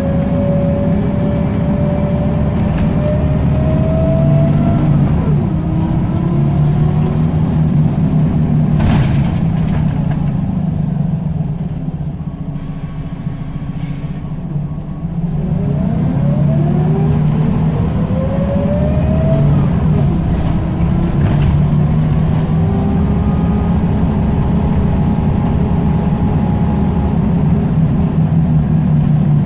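Scania L94UB single-deck bus with Wright Solar body under way: its heavy engine drone runs under a whine that rises in pitch as it accelerates and drops at a gear change about five seconds in. It eases to a quieter, lower running for a few seconds, then pulls away again with another rising whine and gear change about twenty seconds in, and runs on steadily.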